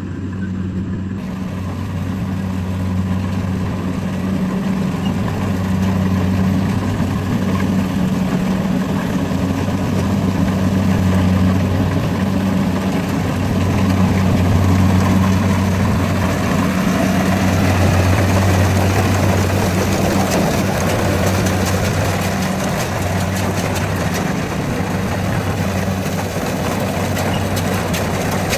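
Rice combine harvester's engine running steadily with a low hum, a rougher, noisier sound thickening over it in the second half.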